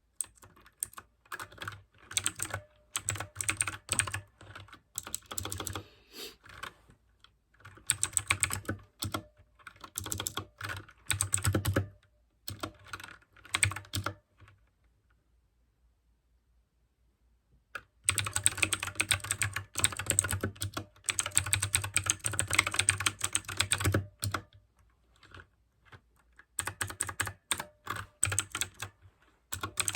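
Fast typing on a mechanical keyboard with clicky blue switches. The keystrokes come in bursts with short pauses between them. There is a silent gap of a few seconds a little past halfway, then a long unbroken run of typing.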